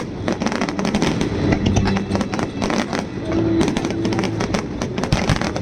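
Fireworks display: a dense, continuous crackle of sharp pops from aerial fireworks, many cracks a second.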